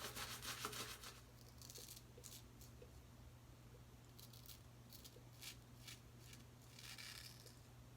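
Faint brisk rubbing strokes on the face during a wet shave for about the first second, then a few light scattered scrapes and another short rubbing spell near the end, over a low steady hum.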